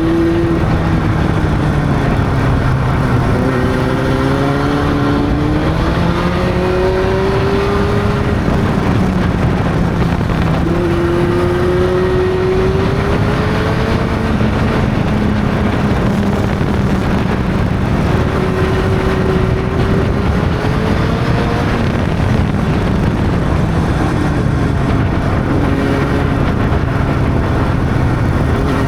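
Honda CB600's inline-four engine running on the move. The note rises and falls gently several times as the bike speeds up and eases off, over steady wind and road noise.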